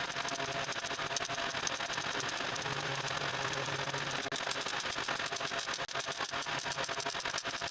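Welder crackling steadily, a dense rapid crackle of many small pops, while laying weld beads on the car body's sheet metal.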